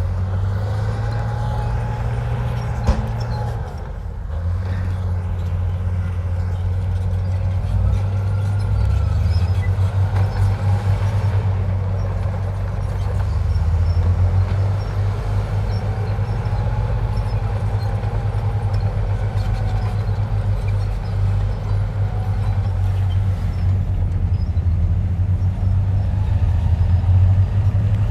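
Heavy diesel engine of earthmoving machinery running steadily under load, a deep continuous hum that swells slightly a few times.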